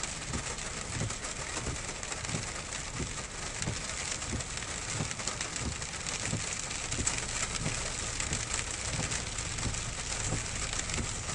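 Rain on a Nissan Frontier pickup's cab, heard from inside: a steady hiss with soft, irregular low thumps.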